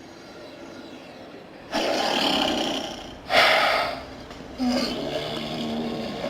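Installation sound collage of processed, animal-like noises: a roar-like burst about two seconds in, a louder short roar just after halfway, then a softer wavering pitched stretch.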